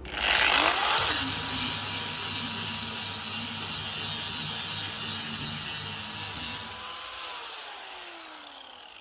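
A handheld power tool starts up, its motor whine rising quickly, and grinds against the work with a harsh rubbing noise. About seven seconds in it is switched off, and the whine falls away as the motor winds down.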